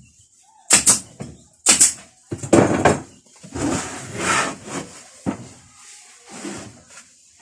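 Two quick pairs of sharp knocks, then longer scraping or rubbing noises, with one more sharp knock about five seconds in.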